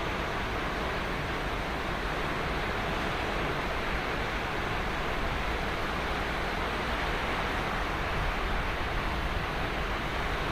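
Steady wash of ocean surf on a sandy beach, an even hiss without distinct breaking waves.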